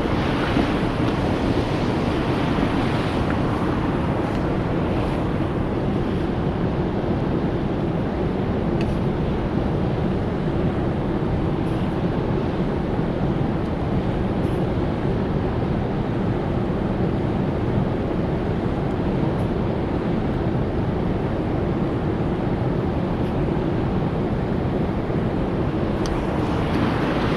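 Steady, loud rushing noise, heaviest in the low range, with a few faint ticks over it.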